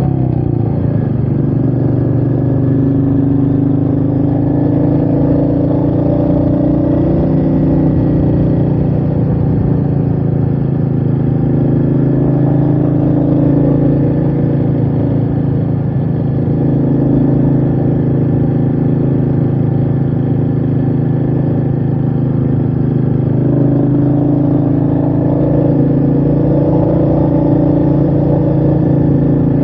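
Royal Enfield Meteor 350's 349 cc single-cylinder engine running steadily on the move, its pitch dipping and rising a little now and then with the throttle, with wind noise over the rider's microphone.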